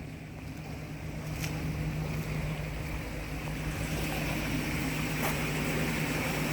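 Floodwater rushing and being sucked into a road culvert pipe, a steady noisy rush that builds over the first couple of seconds and then holds, over a steady low hum.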